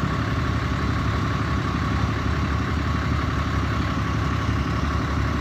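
A vehicle engine idling, low and steady.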